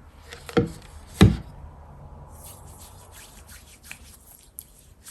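Two sharp knocks on a hard surface, then a quick run of short scraping strokes, about four or five a second.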